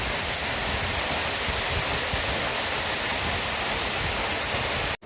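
Waterfall, the steady heavy rush of water pounding down.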